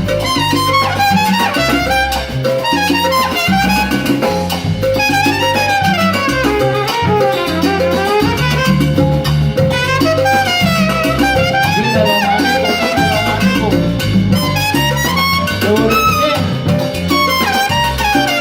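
Salsa band playing: a brass melody moving up and down over a stepping bass line and percussion.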